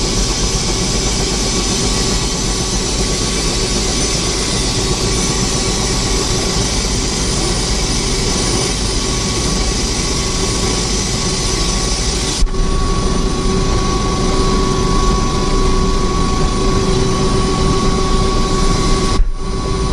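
Helicopter in flight: a steady, loud rush of engine and rotor noise with a constant whine, briefly broken twice, about twelve and nineteen seconds in.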